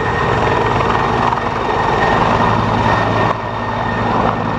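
Helicopter rotor-and-engine sound effect, a steady loud whir that dips briefly about three seconds in.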